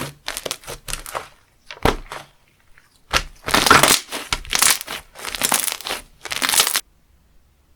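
A textured slime being squeezed and pressed by hand, giving crunchy crackling. It starts as short crackles, turns into longer, louder crunches about three seconds in, and stops abruptly near the end.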